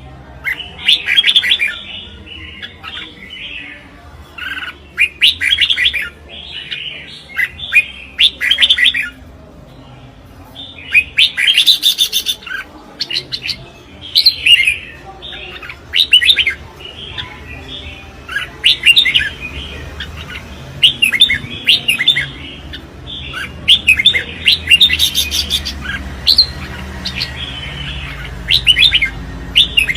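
Red-whiskered bulbul singing its competition song: quick, bright warbled phrases repeated every second or two, with short gaps between them.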